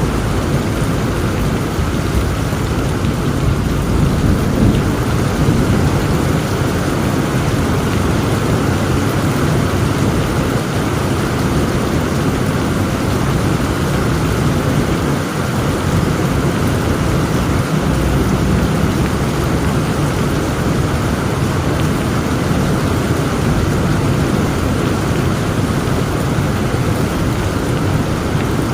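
Heavy rain pouring steadily, with a low rumble of thunder underneath that swells a little about four to six seconds in.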